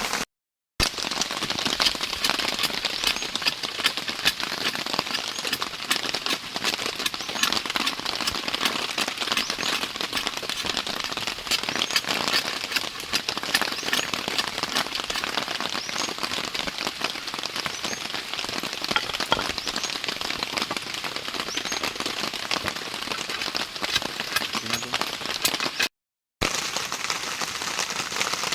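Heavy rain pattering steadily on a surface, a dense hiss full of sharp drop hits. The sound cuts out completely twice for under a second, once just after the start and once near the end.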